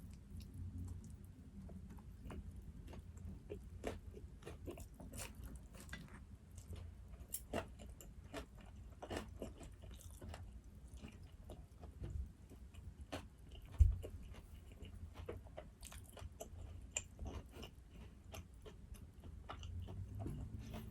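Close-miked chewing of black-bean noodles and fried dumplings: a run of small wet mouth clicks and light crunches. There is one single low thump about fourteen seconds in.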